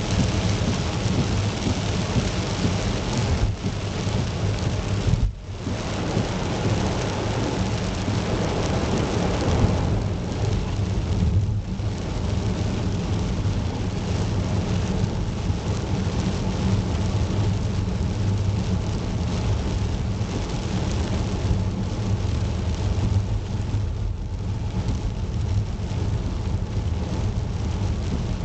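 Heavy rain falling steadily, with a deep, constant rumble underneath; the sound dips briefly about five seconds in.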